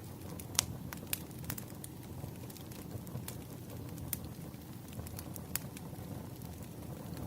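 Wood fire burning: a steady low rumble of flames with irregular sharp pops and crackles of burning logs, the loudest pop about half a second in.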